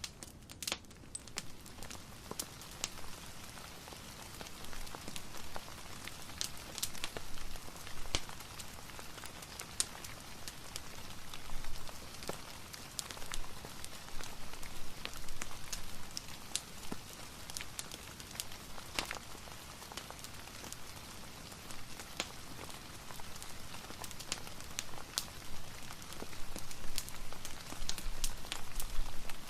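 Ambient recording of steady soft rain mixed with a fireplace, an even hiss scattered with sharp little ticks and crackles.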